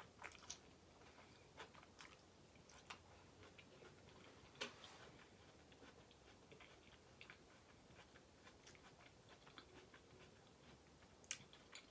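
Faint, close-up chewing of a mouthful of ramen noodles and vegetables, with scattered soft wet mouth clicks.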